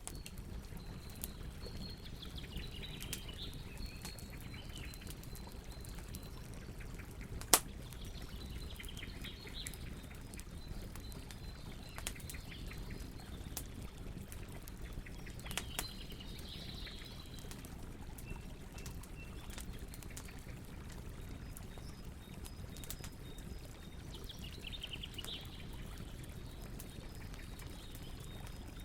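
Campfire crackling with scattered sharp pops, one much louder pop about seven and a half seconds in, over a steady low rushing noise. Bird chirps come in short clusters several times, with a thin steady high tone behind them.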